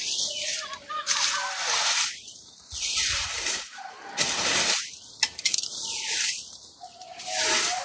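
Broom sweeping: repeated scratchy swishes about once a second, with a few sharp clicks midway.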